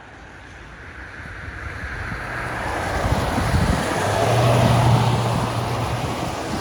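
A road vehicle passing close on a slushy snow-covered road: the hiss of its tyres through the slush grows louder as it approaches and is loudest about four and a half seconds in, with a low engine hum joining it near the peak.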